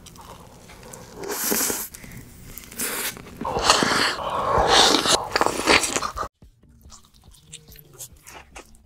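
Close-miked eating sounds: a person biting and chewing food in several bouts, then much quieter with only faint clicks from about six seconds in.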